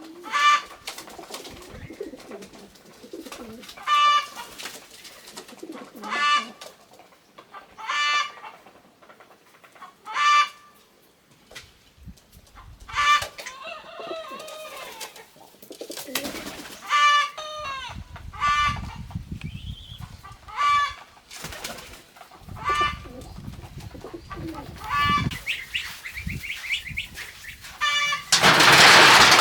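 Farm birds calling, one short call repeated about every two seconds, with other bird calls mixed in. A loud rustling burst comes near the end.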